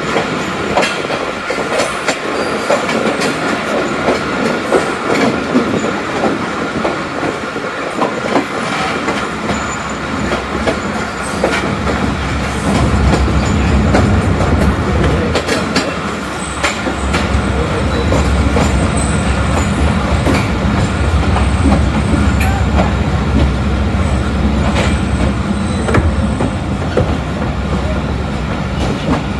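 Karachi Express passenger train running on the track, its wheels clicking and clattering over the rails. A heavier low rumble sets in about twelve seconds in.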